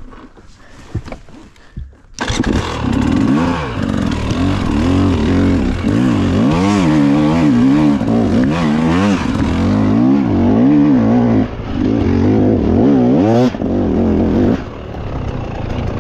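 A small engine running, its pitch rising and falling again and again as it revs, starting about two seconds in and dropping back near the end.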